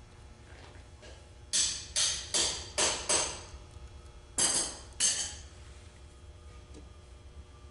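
Sharp metallic tapping while a 4R70W-family transmission valve body is being reassembled: five quick taps in a row about a second and a half in, then two more about a second later, each with a short ring.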